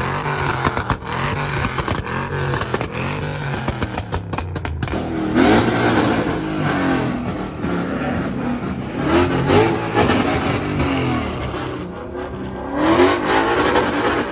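Car engines revving at a street takeover, a low running drone broken by three rising surges of revs.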